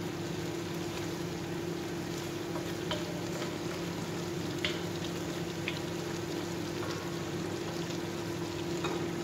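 Chicken simmering and sizzling in a sauce of soy and fish sauce in a wok over a gas flame, with a few light scrapes and taps of a wooden spatula against the wok as it is stirred. A steady low hum runs underneath.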